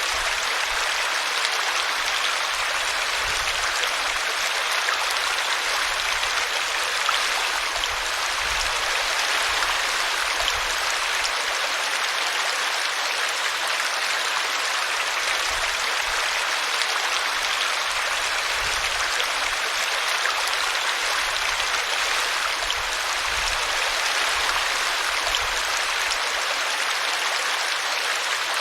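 Small forest brook babbling as it spills over a tree root: a steady, unbroken rush of flowing water.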